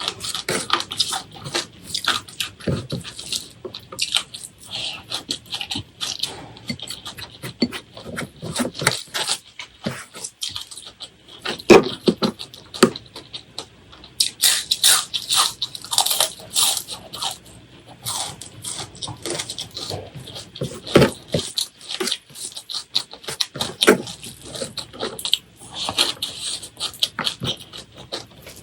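Close-miked eating sounds: wet chewing and mouth smacking with crisp crunches, an irregular run of clicks that thickens in several spells.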